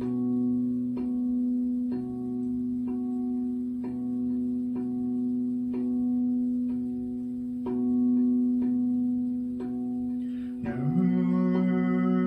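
Singing bowl holding a steady ringing tone, with soft tuned notes struck about once a second over it. Near the end a voice comes in humming a long held low note.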